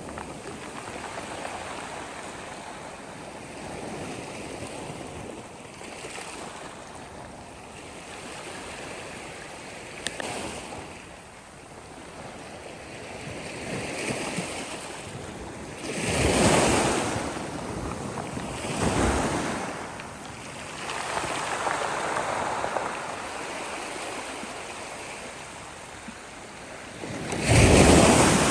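Sea waves washing onto a shore: a steady rush of surf, swelling into louder breaking waves about halfway through and again, loudest, near the end.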